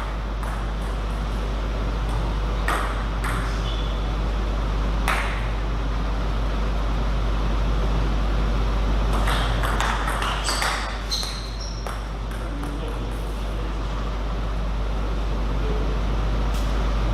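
Table tennis ball striking paddles and the table: scattered sharp clicks, then a quick run of them about nine to eleven seconds in. A steady low hum runs underneath.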